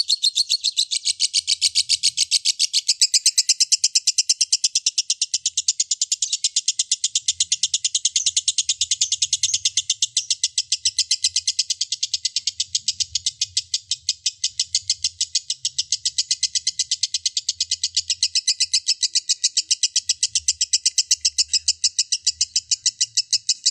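Lovebird 'ngekek': one long, unbroken run of rapid, high-pitched chirps at about seven a second, kept up without a pause. This is the long continuous chatter that Indonesian keepers call ngekek panjang.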